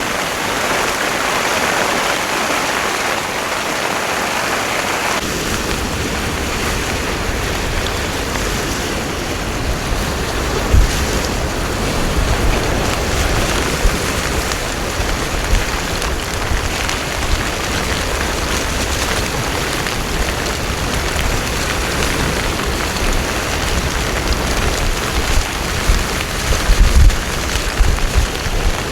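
Heavy rain falling steadily in a downpour. About five seconds in, a low rumble joins the rain, with occasional low thumps that come more often near the end.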